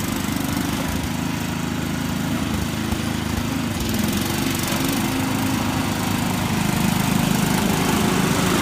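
A small engine running steadily, growing a little louder about halfway through and again near the end.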